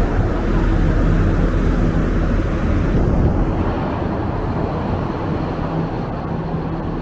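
Strong wind buffeting the microphone, a loud, steady low rumble that eases a little about four seconds in, with a faint steady engine hum underneath.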